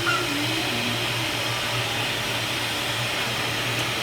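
Kärcher WD5 wet and dry vacuum cleaner running steadily, with a continuous motor hum and rushing air.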